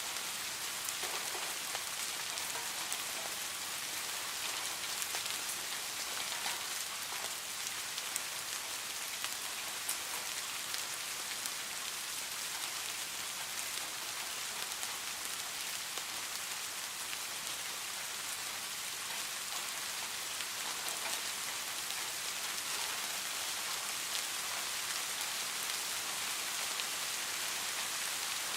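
Steady rain falling, a dense even hiss sprinkled with fine ticks of individual drops striking a surface.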